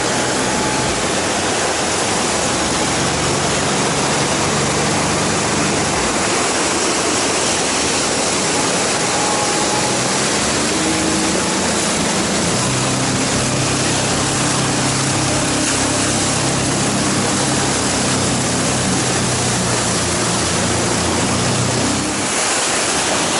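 Loud, steady rush of whitewater, with a faint low hum of steady tones underneath from about two seconds in.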